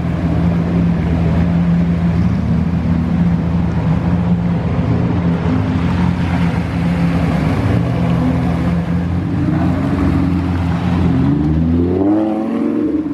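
Car engine running steadily, then revving up with a rising pitch near the end.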